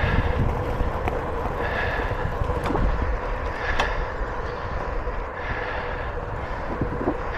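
Wind buffeting the microphone of a moving bicycle, with the rider's heavy breathing, one breath about every two seconds, and a few faint clicks.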